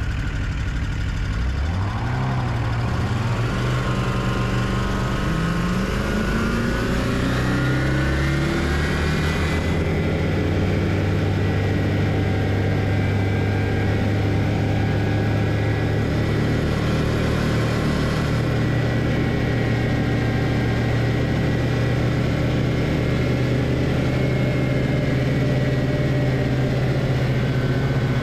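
Snowmobile engine revving up over the first several seconds, its pitch climbing, then running at steady high revs as the machine travels.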